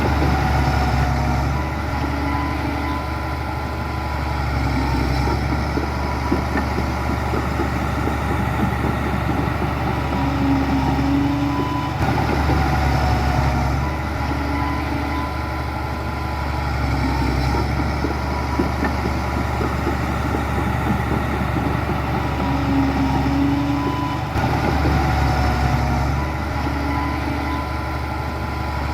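Heavy diesel engine of construction machinery running steadily with a deep drone. The same pattern of sound comes round again about every twelve seconds.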